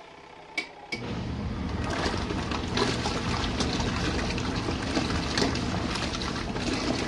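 Compact RV washing machine: two sharp clicks, then its motor starts about a second in and runs with water churning in the tub, a steady low hum under the splashing, for about six seconds.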